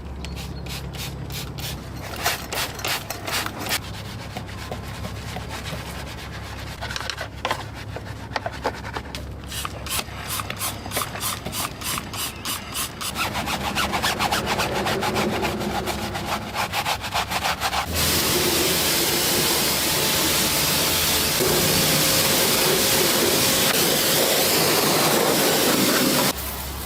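Quick back-and-forth scrubbing strokes on a motorcycle during cleaning. About two-thirds of the way through they give way to a loud, steady hiss of spray or blown air, with a low hum underneath throughout.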